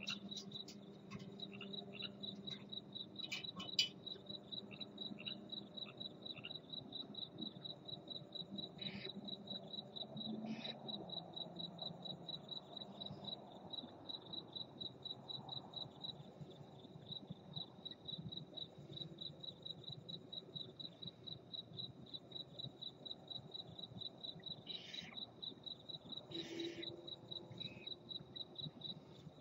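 A cricket chirping steadily in a high, even, rapid pulse, a few chirps a second, with a few brief hissing sounds now and then.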